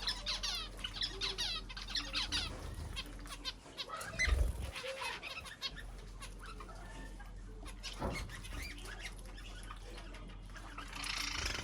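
Several birds chirping and calling in quick, sweeping notes, busiest in the first few seconds, with a low thud about four seconds in.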